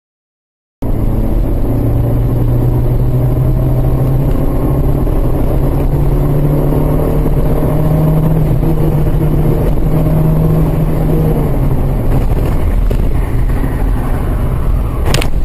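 Car engine and road noise picked up by a dashcam: a loud, steady drone with a low rumble and an engine hum that drifts a little in pitch. A few sharp knocks come near the end.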